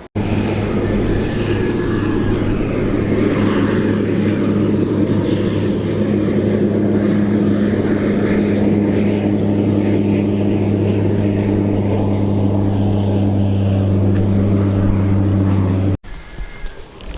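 Military seaplane's propeller engines droning steadily at a constant pitch. The drone stops abruptly about a second before the end.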